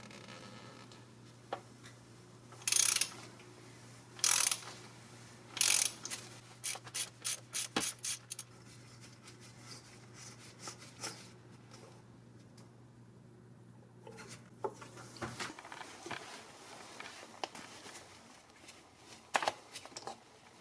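Short scraping noises, then a quick run of mechanical clicks like a ratchet, over a steady low hum that stops about three quarters of the way through.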